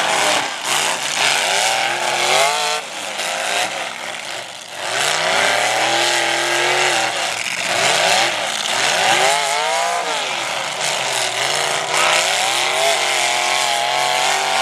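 Several demolition derby cars' engines revving hard and easing off, their pitches rising and falling over one another as the cars drive and ram each other.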